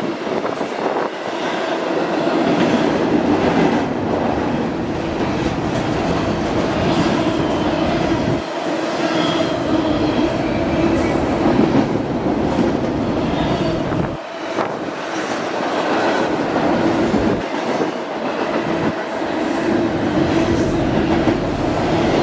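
Double-stack container freight cars rolling past at speed: a steady rumble of steel wheels on rail with clicking over the rail joints and now and then a faint high wheel squeal.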